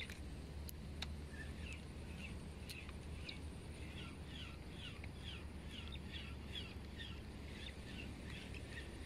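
A bird calling in a quick series of short falling notes, about three a second, starting a few seconds in, over a steady low rumble. A few faint sharp clicks come in the first seconds.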